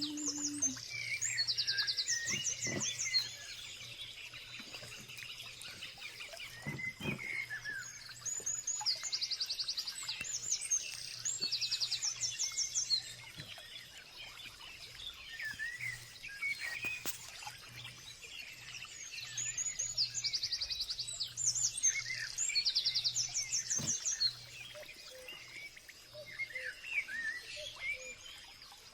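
Songbirds singing: a song of quick high trills and chirps, repeated in three bouts about ten seconds apart, with quieter chirping between them.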